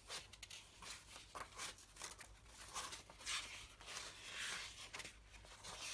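Soft rustling and brushing of old paper pages being turned and handled, in a series of short, irregular scrapes.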